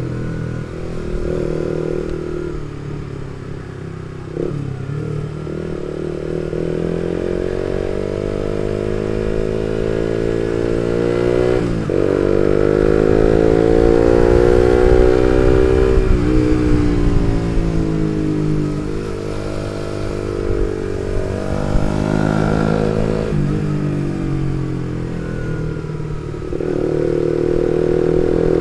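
Suzuki GSX-R150's single-cylinder engine through an R9 Misano aftermarket exhaust while riding. The revs climb and drop through the gears, with sudden breaks in pitch at the shifts, several times.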